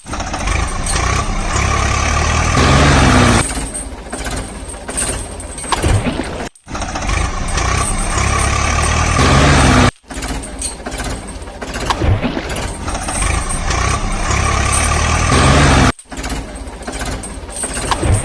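Heavy vehicle engine sound effects, tractor and backhoe-loader engines running, with the revs rising about three seconds in. The effects are spliced together, cutting off and restarting abruptly three times.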